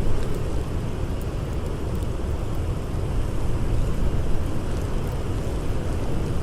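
Blizzard wind howling as a steady, low rumbling rush, with a few faint crackles from a campfire.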